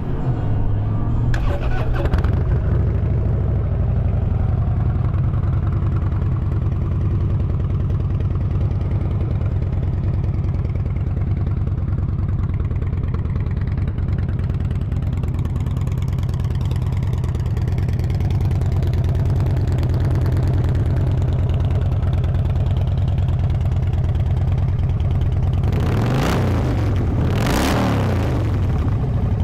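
2016 Harley-Davidson Dyna Street Bob's 103-cubic-inch V-twin, through Vance & Hines Shortshots pipes, starting about a second and a half in and then idling steadily. Near the end it is revved twice, each rev rising and falling quickly.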